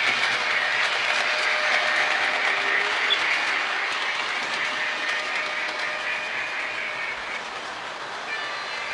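Lionel model train running on its track: the wheels clatter steadily over the rails along with the motor's running noise, slowly growing quieter as the train moves off.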